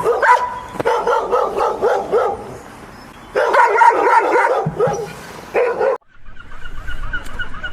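Dog barking and yipping in three quick bouts with short pauses between, cutting off abruptly about six seconds in, where a fainter, different sound takes over.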